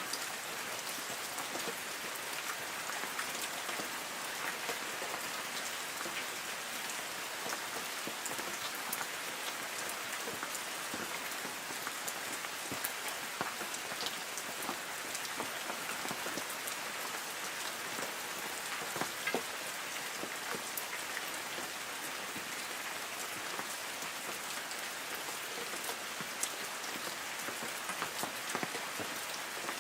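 Light rain falling on forest trees: a steady hiss of rainfall with many scattered individual drops tapping on leaves.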